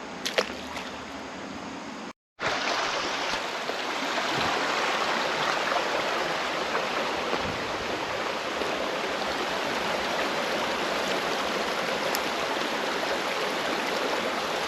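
Creek water rushing over rocks, a steady hiss of flowing current; it cuts out for a moment about two seconds in and comes back slightly louder.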